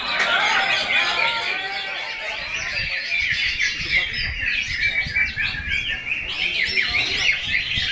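Many caged cucak ijo (green leafbirds) singing at once: a dense, continuous chorus of overlapping chirps, whistled glides and squawky calls.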